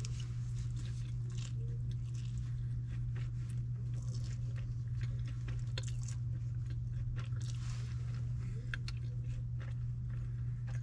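A person chewing and eating orange chicken and noodles close to the microphone, with small clicks and scrapes of a plastic fork in a plastic bowl, over a steady low hum.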